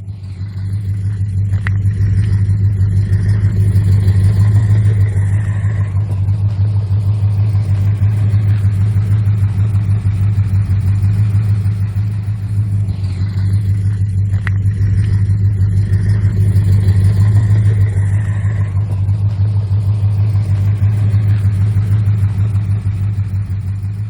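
1969 Plymouth GTX's 440 big-block V8 running steadily, a deep low exhaust note with gentle swells in level and two faint clicks.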